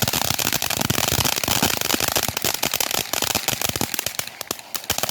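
Bright Star 'Hello Summer' pineapple firework fountain burning with a steady hiss and dense, rapid crackling. It thins out about four seconds in and is dying away as it burns out.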